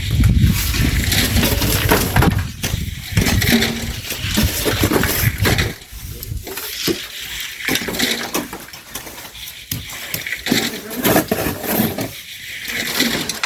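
Steel shovels scraping and digging into sand and gravel, with repeated clinks and rattles as loads are thrown. A low rumble under the first half stops about five and a half seconds in.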